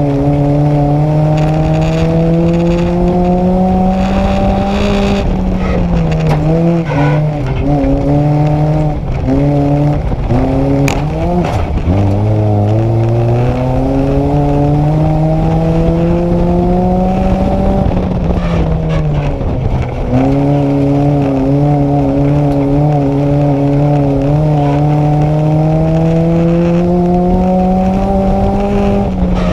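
Nissan Micra race car's four-cylinder engine heard from inside the cabin under racing load. The engine note climbs for several seconds at a time and falls back when the driver lifts for the corners, about every 12 seconds. Around the middle the note wavers and there are a few sharp knocks.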